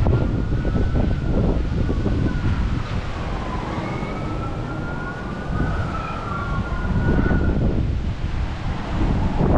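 Emergency vehicle siren wailing, its pitch sliding slowly up and down, under heavy wind buffeting the microphone.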